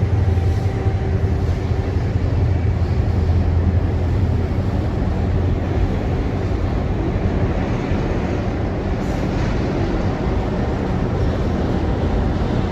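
A steady, loud low rumble, like a moving vehicle or train, easing slightly about halfway through.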